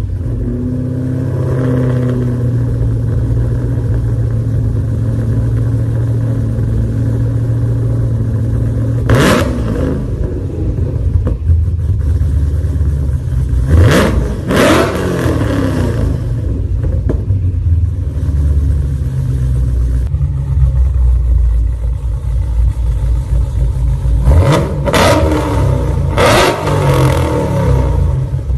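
Dodge Challenger engine idling with a steady low burble just after starting, then revved sharply: once about nine seconds in, twice around fourteen seconds, and three quick blips near the end, with each rev rising and falling fast.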